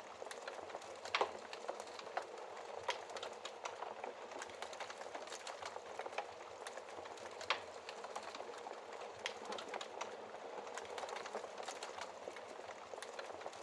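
Wood fire crackling in a fireplace: a steady hiss of burning under frequent small, irregular pops, with a few sharper, louder snaps.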